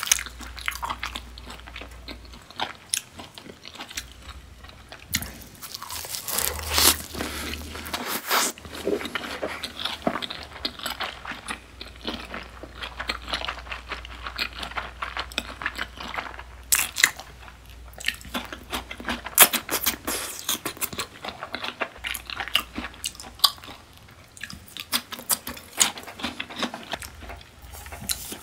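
Close-miked chewing and biting of beef tartare and sea urchin sushi wrapped in seaweed: crisp crunches and a steady stream of mouth clicks, in louder flurries now and then.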